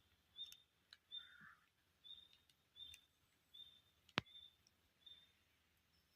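Faint forest ambience: a small bird repeats a short, high call about every three-quarters of a second. A single sharp click sounds about four seconds in.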